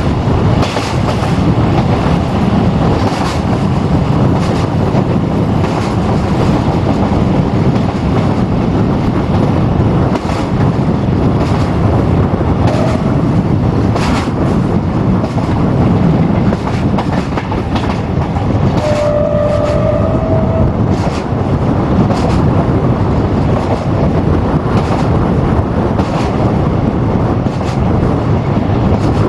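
VT614 diesel multiple unit running along the line, heard from an open side window: a steady rumble of wheels and engine with regular clicks of the wheels over rail joints. A brief steady tone sounds about two-thirds of the way through.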